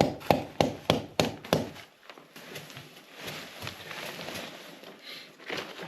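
A run of about six quick knocks, roughly three a second, over the first second and a half, then soft rustling and handling noise.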